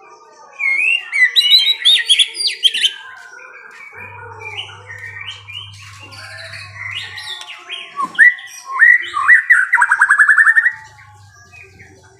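Songbird singing in two loud bursts of rapid chirps and fast trills, with quieter scattered chirps between them.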